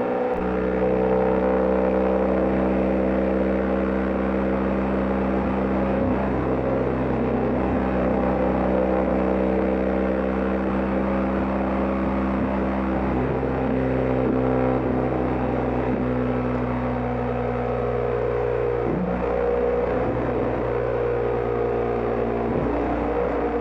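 BMW GS Adventure motorcycle running at steady road speed: a continuous engine drone over a haze of road and wind noise, its tones shifting a few times through the stretch.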